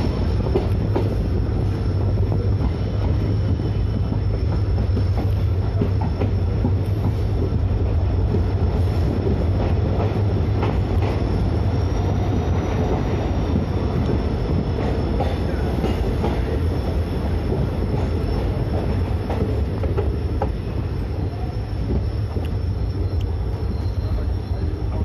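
Passenger train (Yoga Express) heard from inside the coach doorway, running through a station. A steady wheel-on-rail rumble with scattered clicks from the track and a thin high wheel squeal; it eases off a little near the end.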